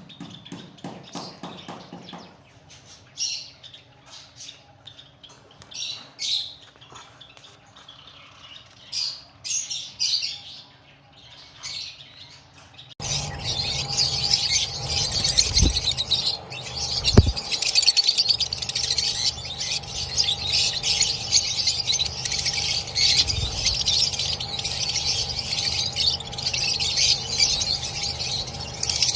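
Parrots chirping and squawking: scattered single calls at first, then about halfway through, suddenly many birds chattering at once, louder and without a break.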